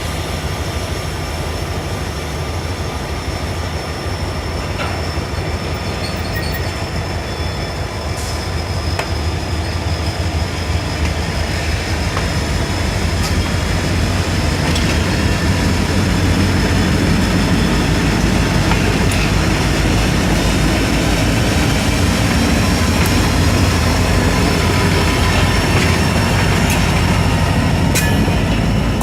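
Freight train moving slowly, with a steady low diesel locomotive rumble and a thin, steady high-pitched wheel squeal. The rumble grows a little louder partway through, and a few sharp clicks come near the end.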